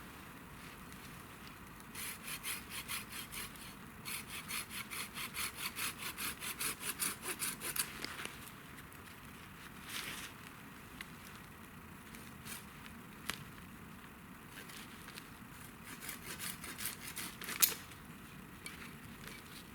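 Hand saw cutting wood in three bouts of quick, even strokes, about four a second, the longest bout in the middle growing louder toward its end; a few single clicks between the bouts.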